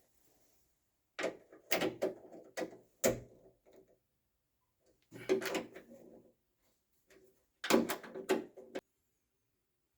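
Small metal parts and hand tools clattering and clicking as they are handled, in three short bursts of knocks a couple of seconds apart.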